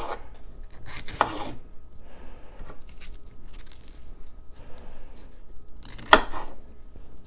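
Kitchen knife cutting vegetables on a cutting board, in irregular strokes with a sharper knock about six seconds in.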